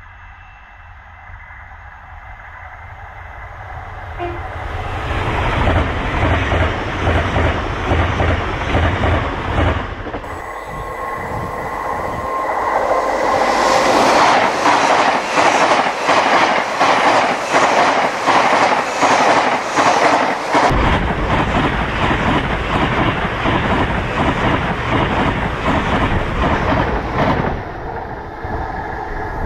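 LNER Hitachi Azuma high-speed train passing close by at speed. It builds from a distant rumble to a loud rush about halfway through, with a rapid, regular clicking of wheels over the track, and the noise carries on to near the end.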